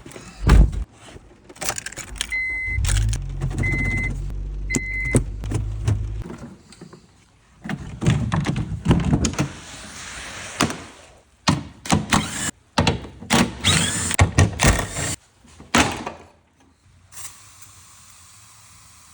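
Clunks, knocks and clicks of work on a car's rear hatch while the old rear wing is taken off and the surface cleaned. Early on a low hum runs for a few seconds with three short high beeps over it.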